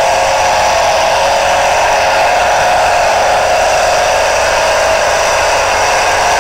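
Hot stock pulling tractor's turbocharged diesel engine running hard at high revs under load, a loud steady sound whose pitch sags slightly and then climbs again near the end.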